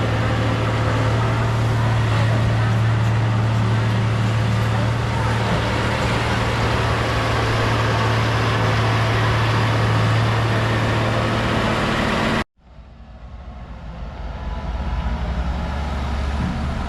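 Heavy diesel engine of a bulldozer running steadily with a strong low hum. About twelve seconds in, the sound cuts off abruptly and comes back quieter, a lower engine drone that builds up again.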